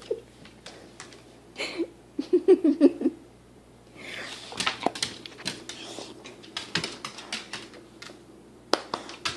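Irregular clicking and scuffling, like a wet dog's claws scrabbling on a hard floor, with short bursts of a woman's laughter in the first few seconds.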